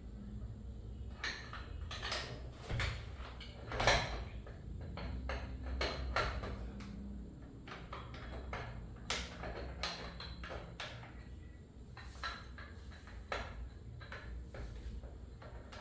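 Irregular clinks and knocks of metal tools and engine parts being handled during engine assembly, the loudest about four seconds in, over a steady low hum.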